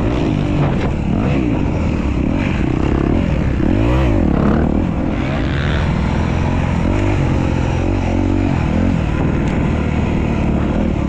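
Dirt bike riding on a motocross track, its motor pitch rising and falling again and again as it speeds up and slows through the course.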